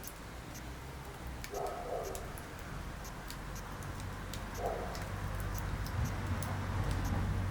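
Wood fire crackling in a fireplace: many small sharp pops and ticks over a low rumble of the burning, with two short pitched sounds about one and a half and four and a half seconds in.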